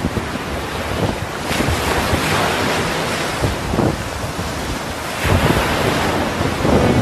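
Wind buffeting the microphone: an uneven low rumble with a rushing hiss that swells and eases.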